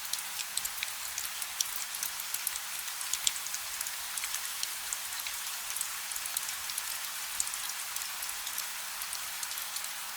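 Steady gentle rain: an even hiss with many sharp, scattered drop ticks on top, and no thunder.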